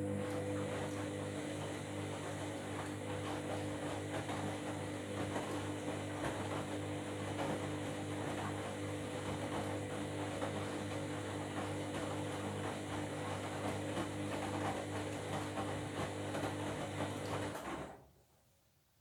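Washing machine running: a steady low hum with a rushing noise over it, which cuts off abruptly near the end.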